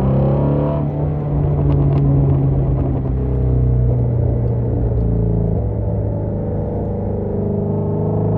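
Shelby GT350's 5.2-litre flat-plane-crank V8 exhaust rumbling on deceleration with the gas pedal lightly pressed, a few short sharp cracks about two seconds in and again near five seconds. Feathering the throttle while decelerating is what makes the stock exhaust pop and crackle.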